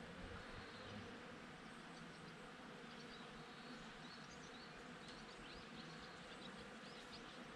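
Honeybees buzzing faintly and steadily. From about three seconds in, quick high chirps come in over the buzzing.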